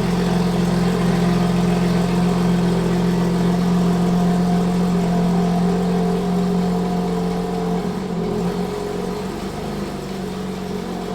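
A car engine running at a steady speed: an even, constant hum that eases slightly in level in the last few seconds.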